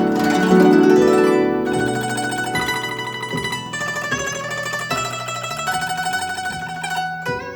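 Guzheng (Chinese zither) played solo: dense ringing plucked strings, loudest in the first second or so, then a run of quick separate plucked notes.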